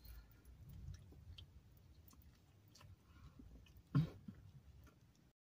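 Close-miked chewing of food, with soft wet mouth clicks and a louder mouth sound about four seconds in.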